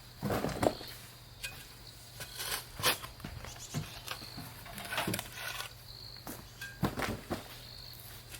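Scattered, irregular knocks, clicks and scrapes, with a heavier thud about half a second in, over a steady low hum.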